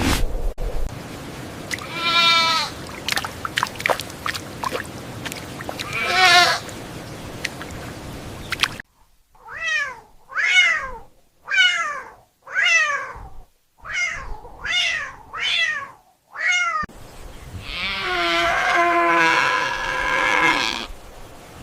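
An animal calling again and again, short calls that fall in pitch: two spaced calls, then seven in a row about a second apart, then a busier stretch of overlapping calls near the end.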